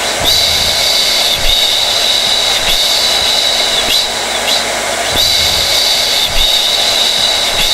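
Hair dryer running steadily: a loud rush of air with a high motor whine that briefly dips about once a second.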